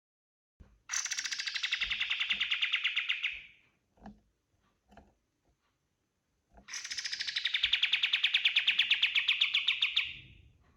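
A kapas tembak songbird singing two long, fast, rattling trills of about three seconds each, a few seconds apart, with a few short faint notes between them.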